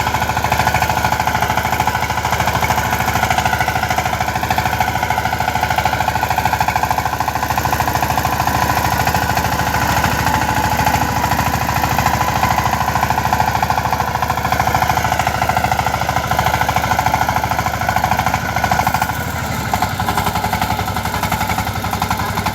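Power tiller's single-cylinder diesel engine running steadily with a fast, even knocking beat, a little quieter for a moment near the end.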